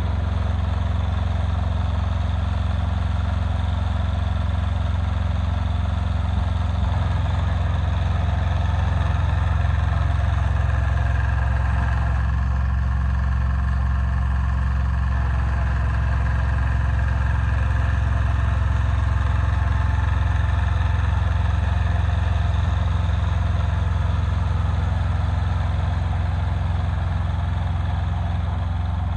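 Yanmar YM146 compact tractor's diesel engine running steadily, a little louder through the middle.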